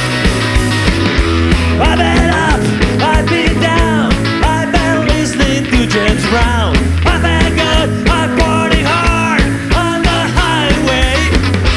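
Punk rock band playing live with fast, even drum hits, a steady bass and distorted guitars. From about two seconds in, a lead melody bends up and down in pitch over the top.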